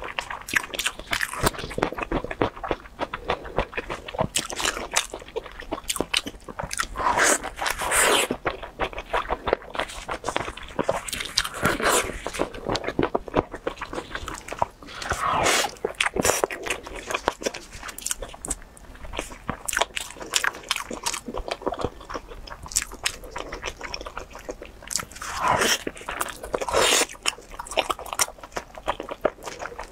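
Close-miked chewing and biting of crispy-crusted zongzi (sticky rice dumplings): a steady run of crackles and crunches, with louder bites every few seconds.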